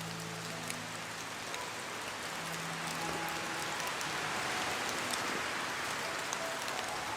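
Steady rain falling on hard surfaces, a dense hiss with individual drops ticking through it. Under it, soft background music holds low notes.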